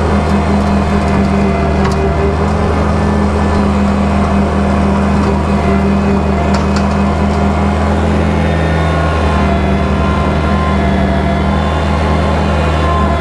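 Kubota tractor's diesel engine running steadily while driving a bush hog rotary cutter, its note dipping slightly about nine seconds in.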